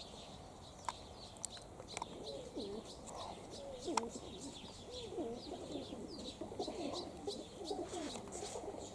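Several domestic pigeons cooing at once, overlapping warbling coos that start about two seconds in and keep going, with higher bird chirps and a few sharp clicks mixed in.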